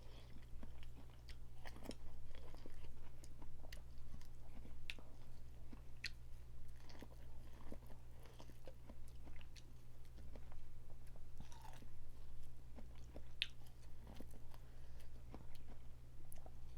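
Close-miked chewing and mouth sounds of a person eating boiled crawfish, with many sharp clicks and crackles as shells are peeled and cracked. A steady low hum runs underneath.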